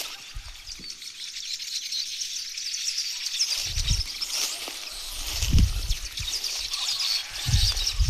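Many small birds chirping at once in a continuous, busy chatter around their nests. A few low thumps, from about the middle to near the end, cut in under the chirping.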